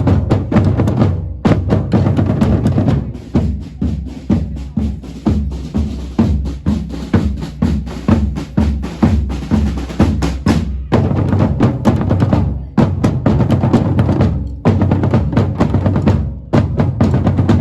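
Drums beating a steady rhythm: bass drum and snare struck in a regular pattern, with a few brief breaks.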